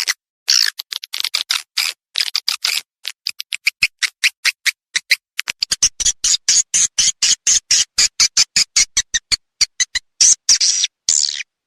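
Swiftlet calls: a rapid train of short, high-pitched chirps and clicks that grows denser about halfway through, with a longer twittering burst near the end. This is a recorded swiftlet call of the kind played at swiftlet houses to lure the birds.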